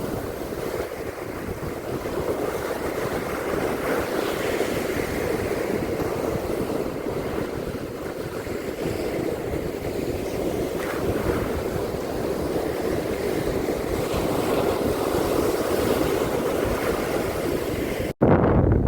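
Ocean surf washing on a beach, a steady rush that swells and eases gently, with wind on the microphone. Near the end the sound cuts out for an instant and returns as a short, loud low rumble.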